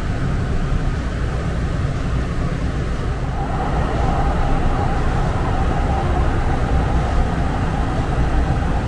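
Muni Metro light rail train running, heard from inside the car: a steady low rumble that grows a little louder about three seconds in.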